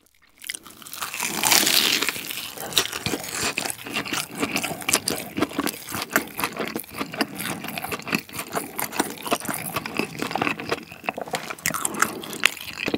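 Crunchy bite into a breaded, air-fried pork cutlet roll about a second in, followed by steady chewing full of crackling crunches from the crisp breading.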